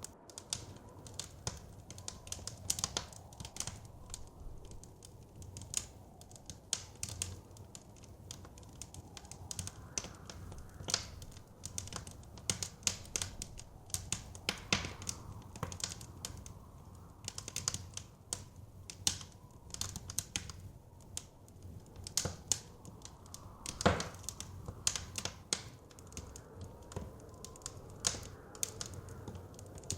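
Wood fire in a fireplace crackling, with frequent irregular sharp pops and snaps, one louder pop late on. Underneath is a soft low blizzard wind that swells and fades.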